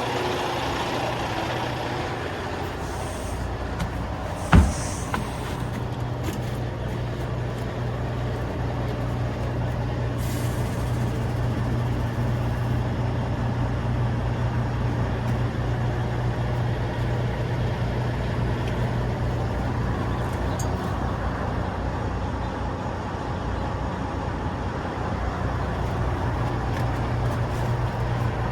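Western Star truck's Detroit DD15 diesel idling steadily, with a sharp bang about four and a half seconds in and a few short spells of high hissing.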